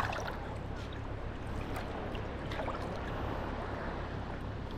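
Small sea waves lapping and washing at the shore, with a few light splashes.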